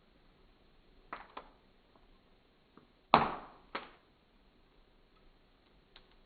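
Fire crackling, its embers giving off a few sharp, scattered pops with quiet hiss between; the loudest pop comes about three seconds in.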